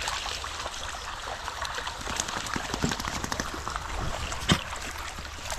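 Running water trickling steadily, with scattered short clicks and rustles over it.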